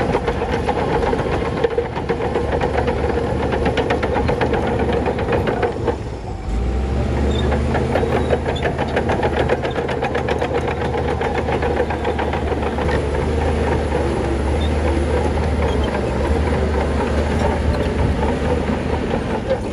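Crawler bulldozer's diesel engine running under load, with a rapid, regular clatter of its steel tracks. About six seconds in, the engine briefly dips, then comes back louder and deeper.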